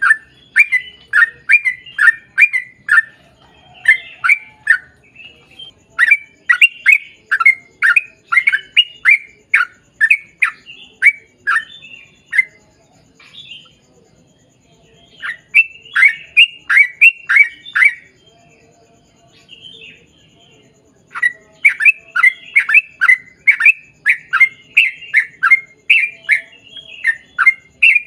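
Yellow-vented bulbul (trucukan) singing long runs of quick, repeated chattering notes, about two to three a second, broken by a few short pauses.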